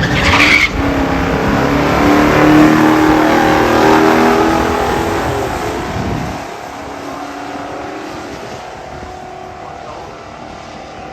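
Muscle car V8 engines at full throttle in a drag race pass, starting suddenly and loud, then fading after about six seconds as the cars run away down the track.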